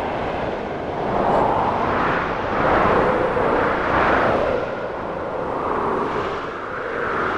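Snowstorm wind howling in gusts over a steady roar, each gust swelling and sinking in pitch every second or two.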